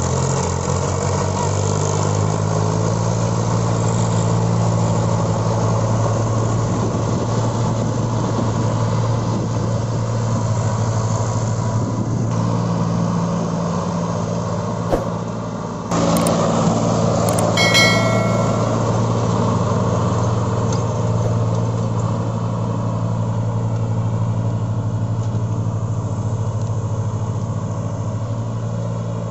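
Tractor diesel engine running steadily at an even pitch. A brief high tone sounds about two-thirds of the way through.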